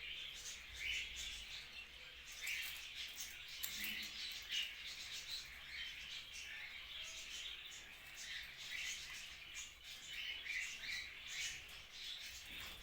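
Pet cockatiels and budgerigars chirping and chattering, a steady run of many short, quick chirps.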